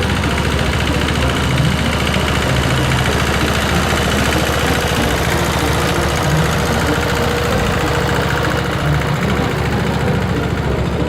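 Kubota L13G tractor engine running steadily.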